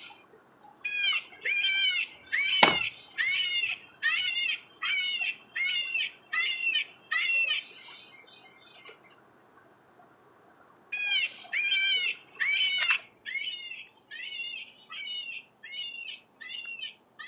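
A songbird singing two runs of repeated, downward-slurred whistled notes, about one and a half a second, the second run weaker. A single sharp crack, the loudest sound, cuts in about two and a half seconds in, and a fainter click comes about thirteen seconds in.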